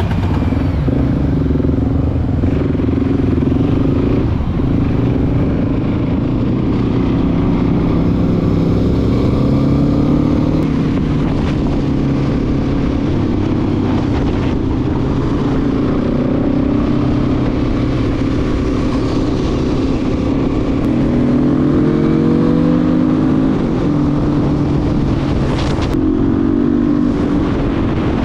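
Motorcycle engine heard from the rider's seat, accelerating through the gears: the engine note climbs, drops back at each upshift and climbs again several times, the longest pull coming near the end.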